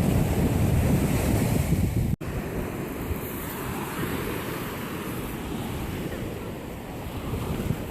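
Surf washing on a beach with wind buffeting the microphone, heaviest in the first two seconds. The sound cuts out for an instant about two seconds in, then the surf and wind carry on more evenly.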